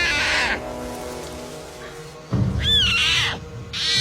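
Tiger cub calling twice, short high calls that rise and then fall in pitch, over soft background music with a held tone.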